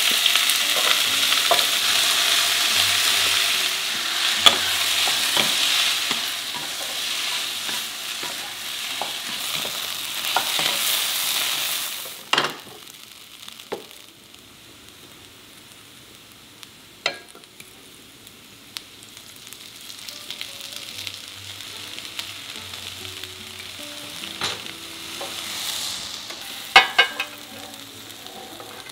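Julienned potato and carrot sizzling loudly as they hit hot oil in a frying pan and are stirred; the sizzling turns much quieter about twelve seconds in. A few sharp clicks come through now and then.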